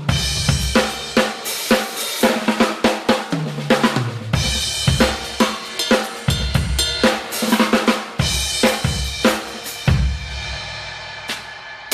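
Drum kit played in a sound-check groove with fills, on a Pearl maple snare that sounds a little high, with bass drum, hi-hat and cymbal crashes. About four seconds in a run of tom hits falls in pitch.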